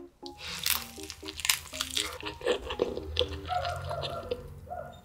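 Close-up mouth sounds of biting into and chewing a seaweed-wrapped convenience-store triangle kimbap: a dense run of sharp crunches and crackles from the seaweed and rice.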